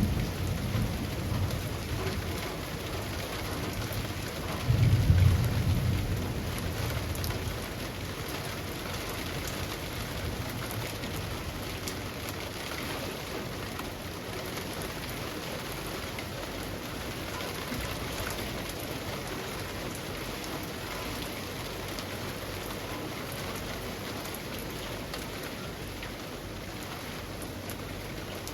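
Steady rain falling on leafy trees, an even hiss of drops. Low thunder rumbles through the first few seconds, swells suddenly about five seconds in, then dies away, leaving only the rain.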